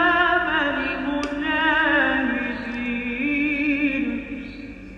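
A single voice chanting Arabic Islamic devotional verse, sholawat, in a long, ornamented line with a strong wavering vibrato, trailing off near the end.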